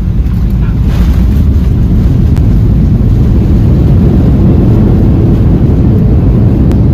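Loud, steady, low roar of a passenger jet heard from inside the cabin: engine and airflow noise with the rumble of the airframe.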